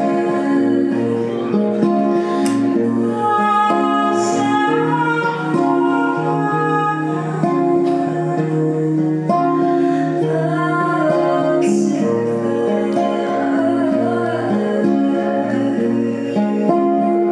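Acoustic guitar played through a song while a woman sings.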